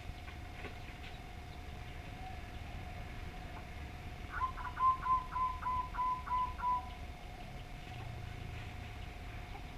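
A bird calling: a quick run of about eight short, even notes over a couple of seconds near the middle, over a faint steady tone.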